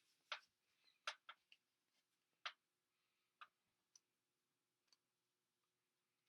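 Near silence with a few faint, scattered clicks, most of them in the first half.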